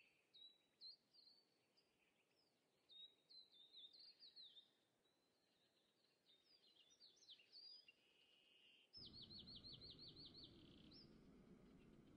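Faint birdsong: short, high chirping notes in scattered bursts. About three-quarters of the way through comes a quick run of about ten repeated notes, over a background hiss that suddenly gets louder.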